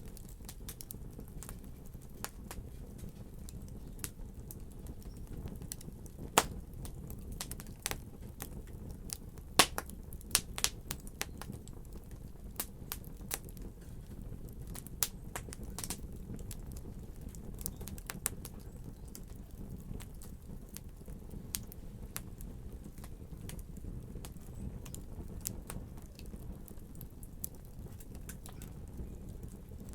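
Wood fire in a fireplace crackling: irregular sharp pops and snaps over a steady low rumble of burning, with a few louder pops.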